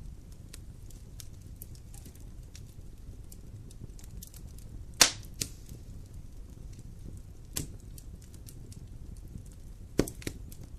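Wood campfire burning, with a steady run of faint crackles and a few loud, sharp pops: one about halfway through with a smaller one just after, a fainter one a little later, and a close pair near the end.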